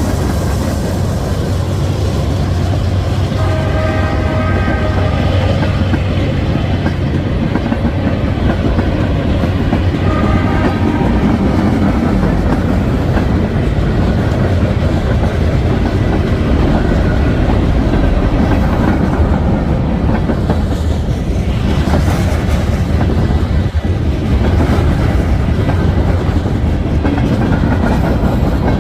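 A train passing close by with a steady heavy rumble and wheel clatter. Short horn notes sound about four seconds in and again about ten seconds in.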